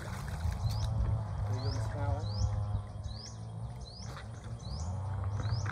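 A bird calling over and over with a short, high, rising chirp, about two a second, over a low steady rumble.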